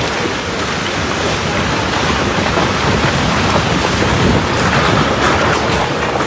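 Loud, steady rushing of water, swelling slightly near the end, with wind buffeting the microphone.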